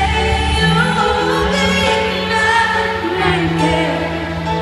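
Live pop ballad: a female singer singing held, gliding notes over sustained instrumental backing.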